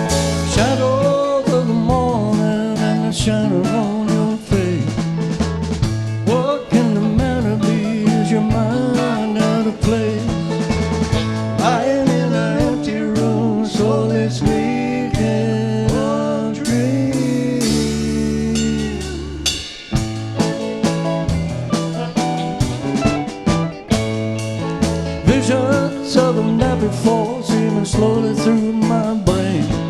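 Live rock band playing a song: drum kit, guitars, bass and keyboard, with a melody line gliding over the chords. Near the middle the band holds a long low note, dips briefly, then comes back in.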